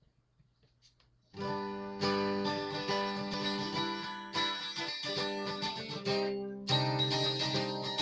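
Acoustic guitar intro: after a brief quiet start, chords begin about a second and a half in and are struck again every two seconds or so, ringing out between strums.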